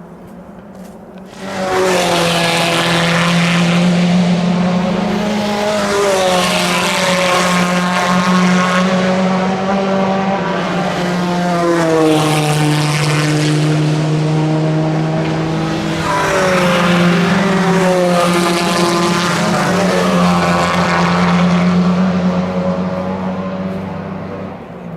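Racing car engines at full throttle, arriving suddenly about a second and a half in and staying loud, with the engine note dropping and climbing again several times as the cars change gear, then fading near the end.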